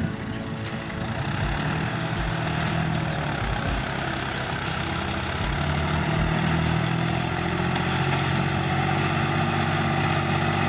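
Tractor engine running steadily with a low hum, getting somewhat louder about halfway through.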